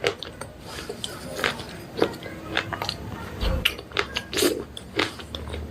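Slate pencils being bitten and chewed close to the microphone: an irregular run of sharp, dry crunches, about two or three a second, with a brief low bump about halfway through.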